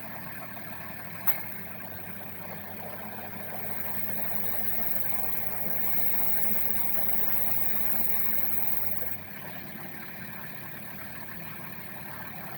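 Suzuki Wagon R's 660 cc three-cylinder engine idling after a remote start, running the air conditioner to defrost. A sharp click about a second in, after which the running grows louder with a deeper hum, then drops back to the plain idle about nine seconds in.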